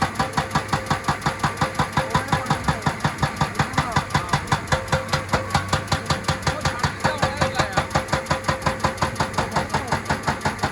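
Excavator-mounted hydraulic rock breaker hammering rock: a fast, steady series of blows, about five a second, over the excavator's running diesel engine.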